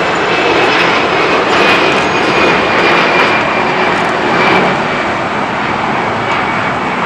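Jet airliner's engines passing close by: a loud, steady rush with a faint high whine that slowly falls in pitch, easing off a little near the end.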